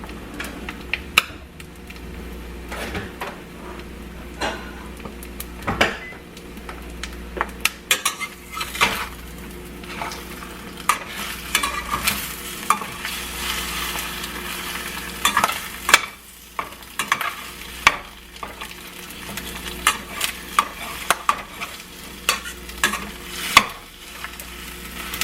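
Eggs frying and sizzling in a pan, with a utensil scraping and tapping against the pan again and again as they are stirred.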